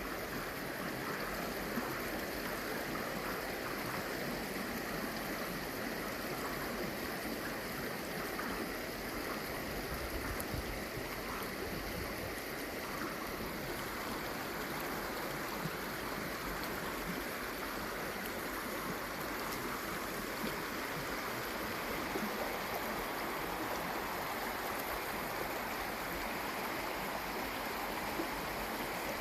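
Steady rush of water from a mountain waterfall and its stream, unbroken throughout.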